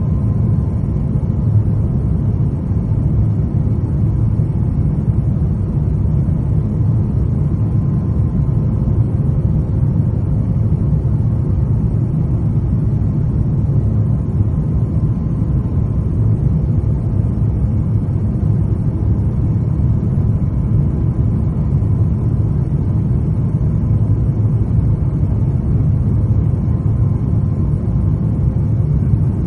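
Steady low rumble of an Airbus A350-900's cabin on final approach: airflow and its Rolls-Royce Trent XWB engines heard from a seat beside the engine, with a faint steady hum.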